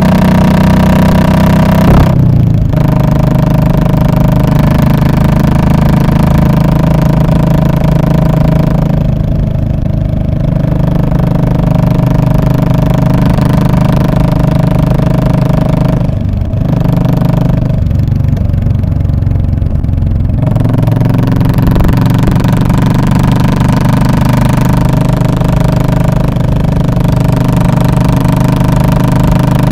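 Exhaust note of a 2017 Royal Enfield Classic 500's single-cylinder 499 cc engine, running loud and steady, with a few short dips where the sound softens and the pitch steps.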